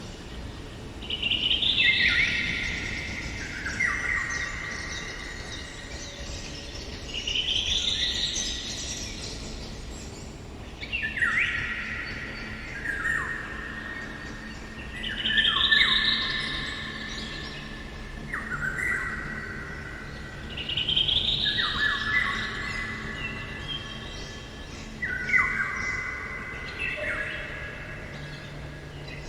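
Eurasian golden oriole singing: short fluty whistled phrases, each a quick swooping note followed by lower held notes, repeated every few seconds.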